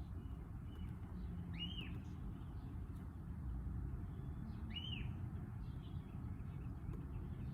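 A bird calling: a short arched chirp, heard twice about three seconds apart, over a steady low background rumble.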